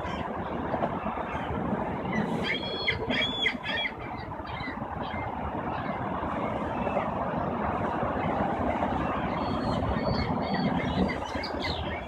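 Canada geese calling in two short bouts of a few quick calls each, about two and a half seconds in and again near the end, over a steady background rumble.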